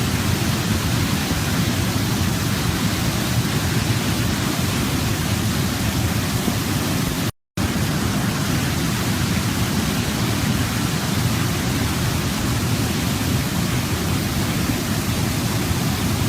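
Waterfall with a steady, full rush of falling water, heaviest in the low end. About seven seconds in, it cuts out to total silence for a split second, then resumes unchanged.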